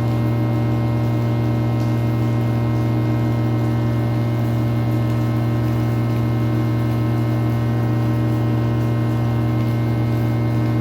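A steady, unchanging low hum with many overtones.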